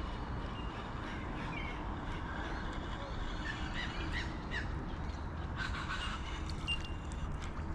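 Steady low wind rumble, with a scattering of short bird calls through the middle.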